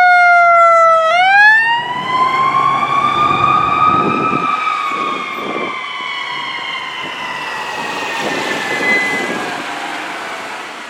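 Rescue ambulance siren on a wail: a falling tone that jumps back up about a second in, then climbs slowly and sinks again while growing fainter. A low rumble of the vehicle runs beneath it for a few seconds in the middle.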